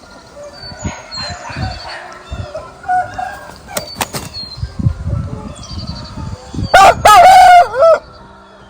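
A rooster crows once, loud, for about a second near the end. Earlier there are short high chirps and scattered low thumps.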